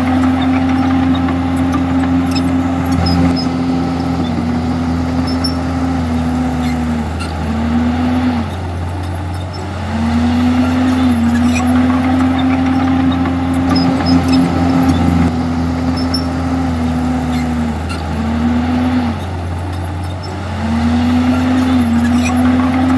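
Komatsu D51EX bulldozer's diesel engine running hard under load, with a steady pitch that twice sags briefly and then picks back up.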